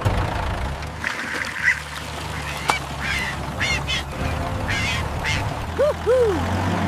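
Ducks quacking, with two arching quacks about six seconds in and high chirping calls before them, over a steady low hum.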